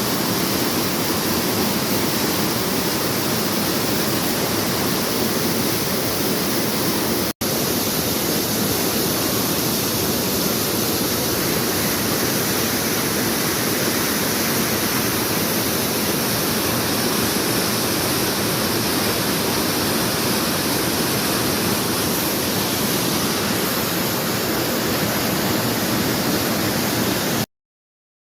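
Waterfall rushing steadily, a dense even roar of falling water, broken by a split-second gap about seven seconds in and cutting off suddenly near the end.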